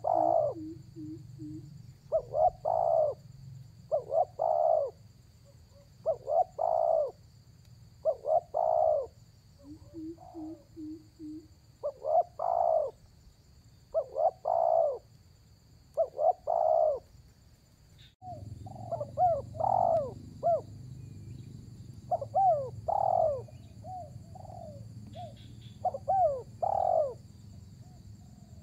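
Spotted dove cooing over and over, a call group about every two seconds. About 18 seconds in, the background changes abruptly and the coos come in a quicker, more broken pattern.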